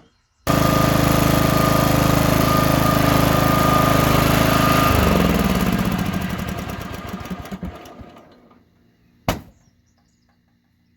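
Lawn tractor engine running steadily, then switched off and coasting down over a few seconds. About a second after it stops comes a single sharp pop: an afterfire backfire, because the plunger has been cut off the carburetor's fuel shut-off solenoid and fuel is no longer cut at shutdown.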